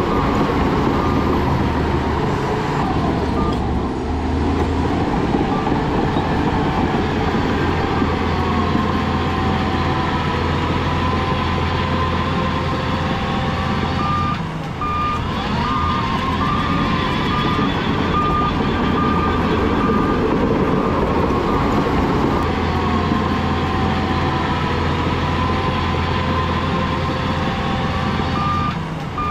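Heavy diesel earthmoving machinery running under load, its engine pitch rising and falling, while a reversing alarm sounds in runs of short, evenly spaced beeps near the start, around the middle and at the end.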